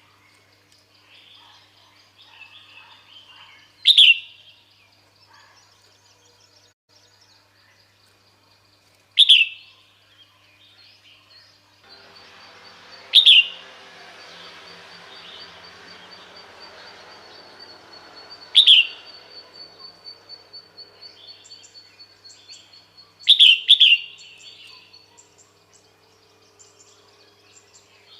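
Female red-whiskered bulbul calling: loud, short, sharp notes roughly every four to five seconds, the last one doubled, with softer chirps between. A steady hiss and a faint high pulsing tone sit under the calls through the middle.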